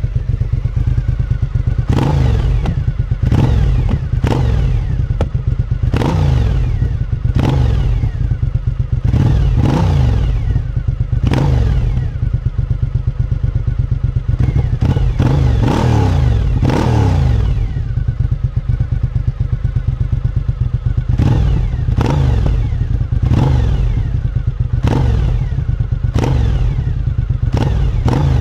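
Suzuki SV1000's V-twin engine through its stock exhaust, blipped repeatedly from idle: each sharp rev falls straight back to a lumpy idle, in runs about once a second, with a few seconds of plain idle past the middle.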